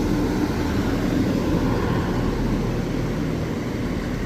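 Class 170 diesel multiple unit running steadily at a station platform, its underfloor diesel engines making a low rumble.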